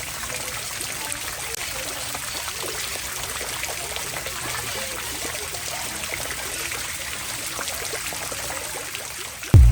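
Steady splashing and trickling of running water. Near the end, loud electronic music with a heavy beat cuts in suddenly.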